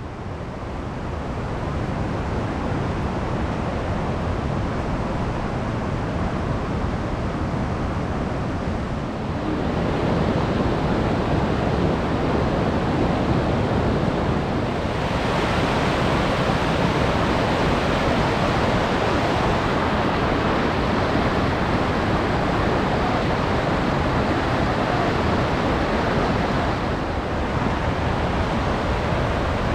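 Waterfall rushing: a steady roar of falling water that grows louder about ten seconds in and again about fifteen seconds in.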